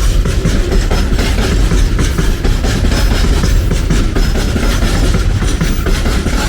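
Train passing close by: a loud, steady rumble of steel wheels on the rails with rapid clicking throughout.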